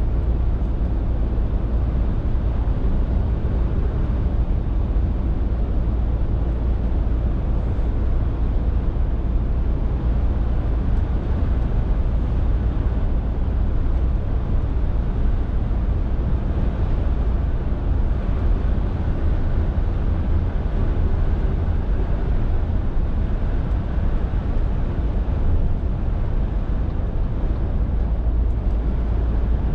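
Scania R450 lorry on the move: a steady low diesel drone mixed with road and wind noise, holding even throughout.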